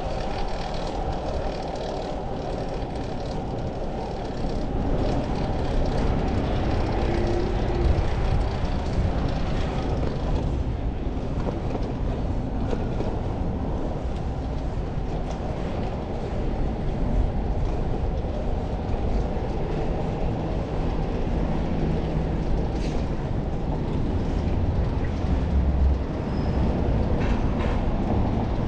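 Steady rush of wind buffeting the microphone, mixed with tyre and road noise from a bicycle in motion, swelling and easing slightly.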